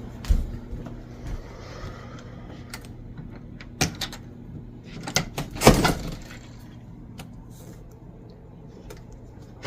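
A door being handled: a few separate knocks and rattles, the loudest a little over halfway through, over a steady low hum.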